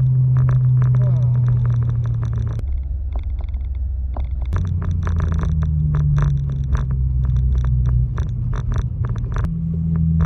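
Single-turbo BMW 335i's N54 straight-six running at low revs, a steady low drone whose pitch steps down and up again a few times, with a fast irregular crackle over it.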